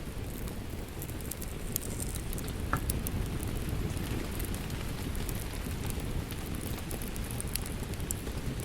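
Wood fire crackling, with scattered sharp pops and snaps, over a steady low rush of rain. One slightly louder pop comes a little under three seconds in.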